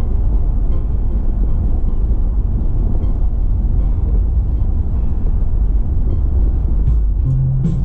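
Steady low rumble of road and engine noise from a car driving along at speed. Near the end a short low hum and a few faint ticks come in.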